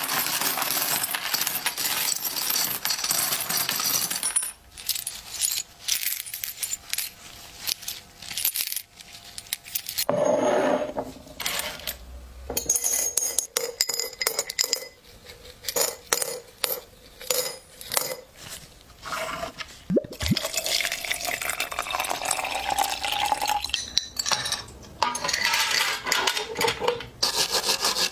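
Old metal coins clinking and dropping onto a hard surface and against each other, in repeated bursts of rattling with quieter gaps between.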